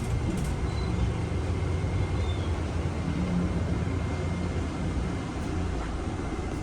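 Motor vehicle running, a steady low rumble with a faint thin whine held steady above it.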